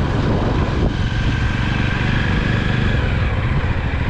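Jawa motorcycle running steadily while being ridden, its engine and road noise filling the sound.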